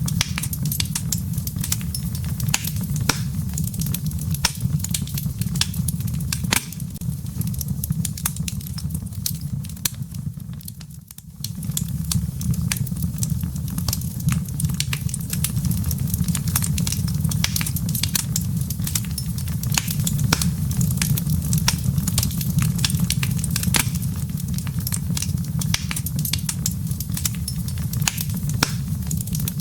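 Wood fire in a fireplace, crackling: many irregular sharp pops and snaps from the embers over a steady low rumble of the flames. The sound briefly drops in level about ten to eleven seconds in, then picks up again.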